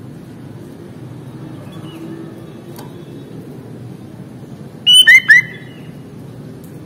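Sooty-headed bulbul (kutilang) giving three quick, loud, sharp notes about five seconds in, over a steady low background hiss.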